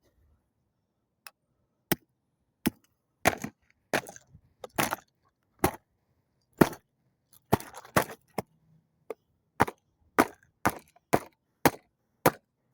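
Repeated sharp blows smashing a kids' toy microwave: about twenty separate cracking impacts at an uneven pace, starting about a second in, some in quick pairs.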